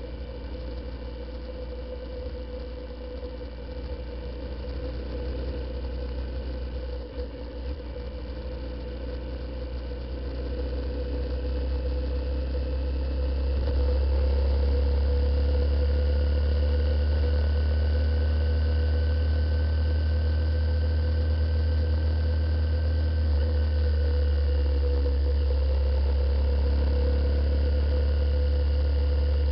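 Honda CBF125's single-cylinder engine running on the move, with a low rumble on the microphone. The rumble grows louder over a few seconds near the middle and then holds steady.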